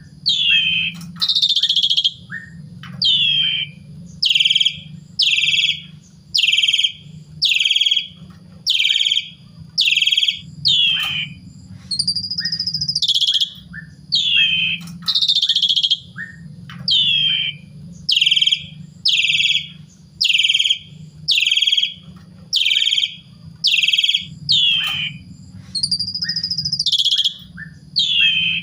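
Asian pied starling (jalak suren) singing: a long run of loud, downward-sliding whistles, about one a second, with a few longer held whistles that then drop in pitch. A steady low hum underneath.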